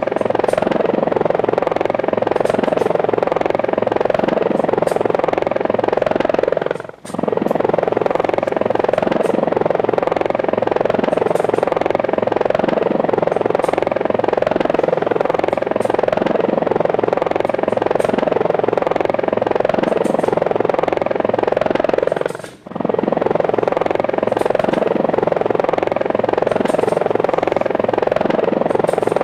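Helicopter rotor and motor sound running steadily with a fast, regular pulse; it briefly drops out twice.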